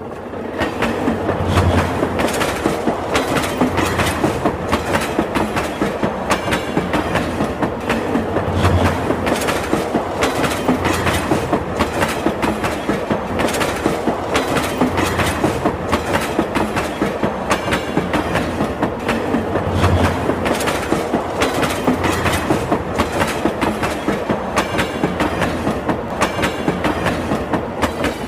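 Passenger train running, its steel wheels clattering steadily and rapidly over the rail joints.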